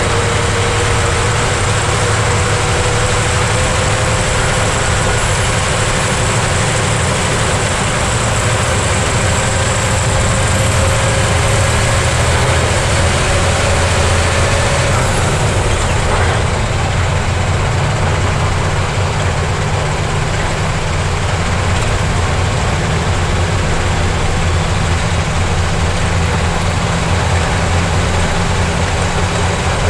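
Heavy truck engine running steadily under load. Its note rises slowly, then falls away about halfway through.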